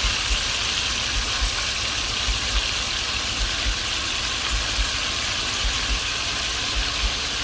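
Seasoned oxtail pieces browning in a hot pot, a steady sizzle, with irregular low thumps a few times a second underneath.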